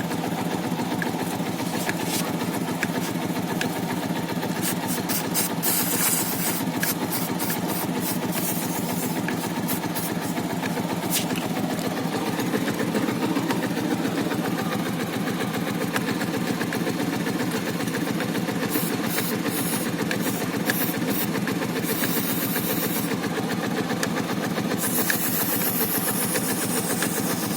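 Bajaj Avenger 220 Street's single-cylinder engine idling steadily, with short hisses of aerosol chain lube being sprayed, the longest near the end.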